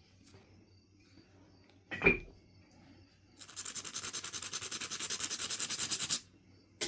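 Knife River Flint being knapped: a sharp click as a flake is struck off about two seconds in, then about three seconds of rapid back-and-forth scraping as the edge is abraded, and another sharp click near the end.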